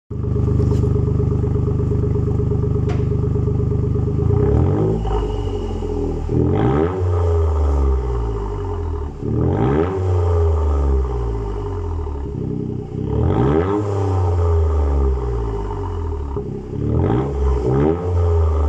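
Toyota GR Yaris's turbocharged three-cylinder engine running through a straight-through GPF-back exhaust. It idles steadily for about four seconds, then is revved in sharp blips that rise and fall in pitch, repeated every three to four seconds.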